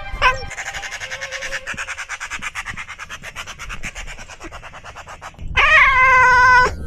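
A bird calling: a fast, even rattling chatter that slowly fades over several seconds, then one loud drawn-out call near the end.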